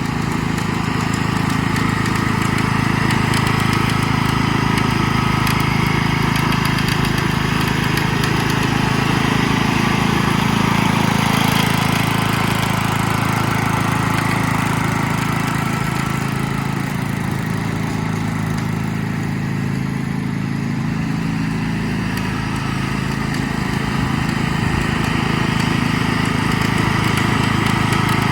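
1985 Westwood W10 ride-on mower's engine running steadily under way, with small rises and falls in level.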